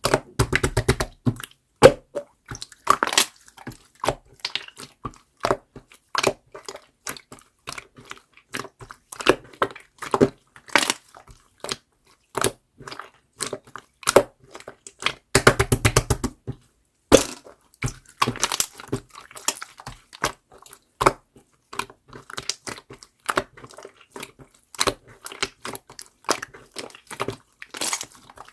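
Clear slime being squeezed, stretched and pressed by hand, making a steady string of sharp wet clicks and pops as trapped air bursts, with quick runs of rapid pops near the start and again about fifteen seconds in.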